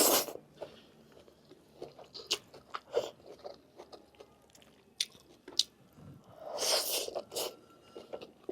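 Close-miked chewing and biting of bone-in lamb meat, with wet mouth clicks and crunching. Louder noisy bursts at the start and again about seven seconds in.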